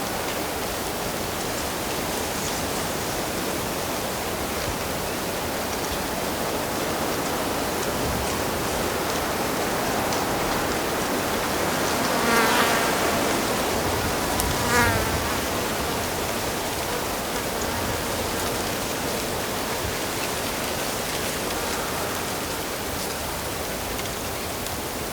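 Steady rush of flowing stream water, with a flying insect buzzing close past twice about halfway through, its buzz rising and falling in pitch as it passes.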